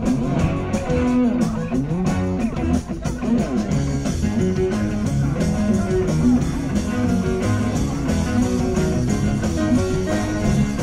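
Live rock band playing an instrumental jam: an electric guitar lead with bent, gliding notes in the first few seconds over bass and drums.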